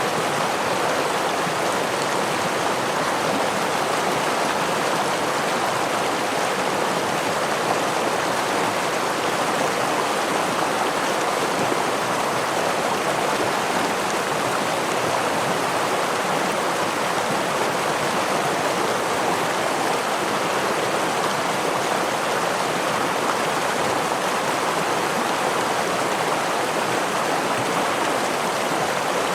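A stream or small waterfall running over rocks: a steady rush of flowing water that holds the same level throughout.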